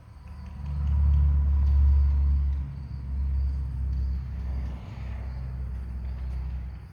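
A loud, uneven low rumble, strongest about one to two and a half seconds in, over crickets chirping steadily.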